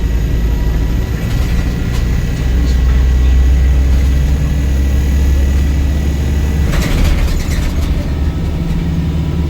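Volvo B5LH hybrid bus's four-cylinder diesel engine running hard under acceleration, heard from inside the bus. About seven seconds in there is a burst of rattling clicks, and the engine note then eases off.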